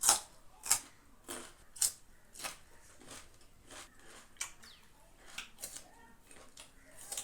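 Crisp crunching of raw fruit or vegetables being chewed close to the microphone, a sharp crunch about every half second to second, loudest in the first two seconds and then softer.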